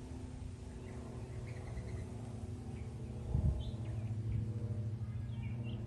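Small birds chirping faintly and sparsely outdoors over a steady low hum, with a brief low thump about three and a half seconds in.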